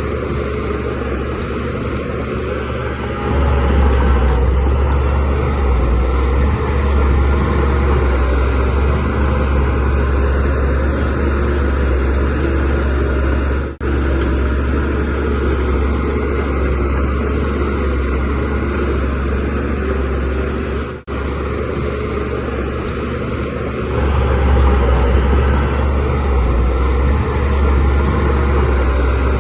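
Shantui DH17C3Pro bulldozer's diesel engine running steadily under load. It gets louder about three seconds in and again near the end, and the sound drops out briefly twice.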